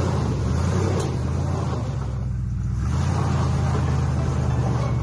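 Truck engine running steadily with a low, even note, easing briefly about halfway through.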